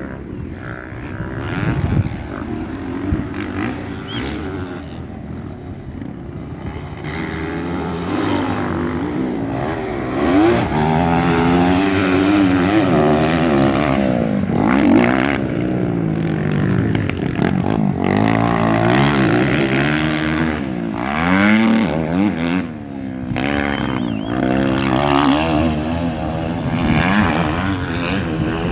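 Several motorcycle engines revving hard, their pitch repeatedly climbing and dropping as they accelerate and shift, overlapping one another; the sound grows louder about eight seconds in.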